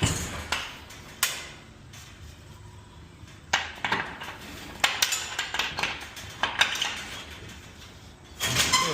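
Scattered metallic clanks and knocks of cargo being secured in a box truck's cargo area, with a longer rattling clatter near the end.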